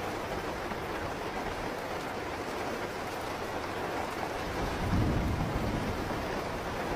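Steady heavy rain falling, with a low rumble of thunder that swells about five seconds in.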